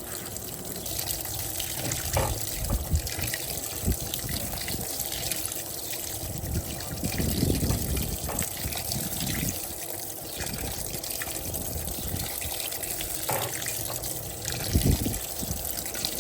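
Electrolux Turbo Capacidade Premium 15 kg (LTP15) top-load washing machine filling: water pours steadily into the tub through the cascade inlet, which also fills the softener dispenser. A few low thumps sound, the loudest near the end.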